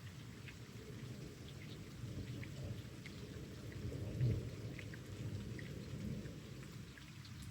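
Thunder rumbling low, swelling to its loudest just after four seconds in and then fading, over steady light rain with scattered raindrops ticking.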